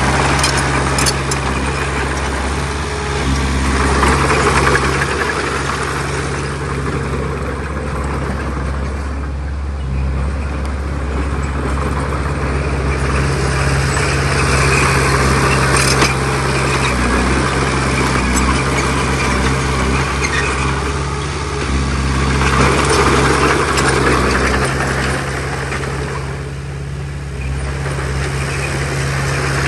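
Heavy diesel engine of a working bulldozer, running steadily and swelling louder and fading several times as it takes load and eases off, with a sharp clank about sixteen seconds in.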